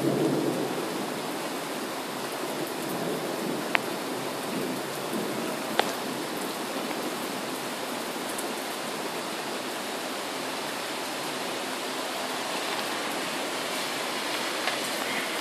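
Heavy thunderstorm rain falling steadily as an even hiss, with the tail of a low thunder rumble dying away in the first moment. Two sharp ticks come a few seconds in.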